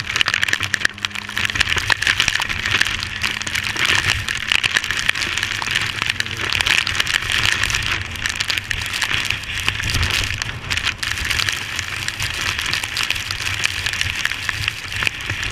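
Heavy rain hitting a GoPro camera housing on a moving motorcycle, a dense crackle of drops, with the Yamaha Fazer 250's single-cylinder engine running as a low steady hum underneath.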